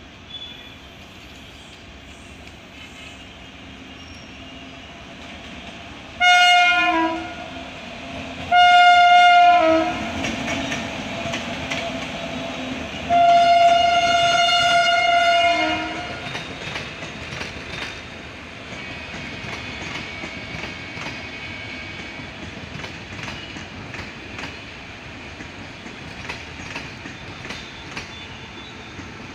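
Indian Railways locomotive horn sounding three blasts, two short and then one long, as the train comes through. Between and after the blasts the train rumbles past, its wheels clattering over the rail joints.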